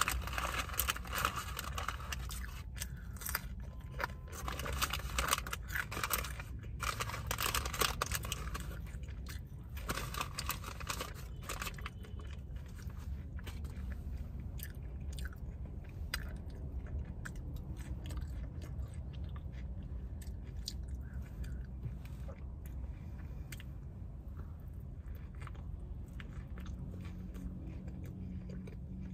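Close-up eating sounds: biting and chewing a burger, with louder crunchy, crackly bites for about the first twelve seconds, then softer, sparser chewing.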